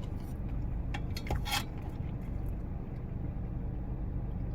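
Steady low hum inside a parked car's cabin, with a few short sharp clicks a little over a second in, from handling while eating.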